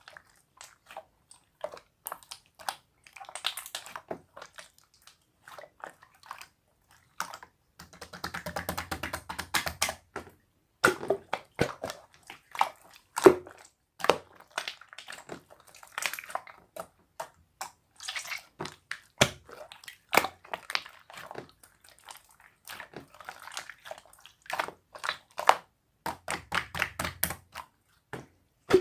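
Irregular clicks and taps with stretches of crinkly rustling, the longest about eight seconds in and again near the end.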